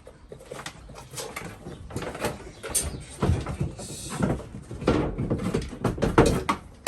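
Plywood pieces knocking and banging as they are forced together into an interlocking joint: irregular wooden thumps, with a short scraping sound about four seconds in.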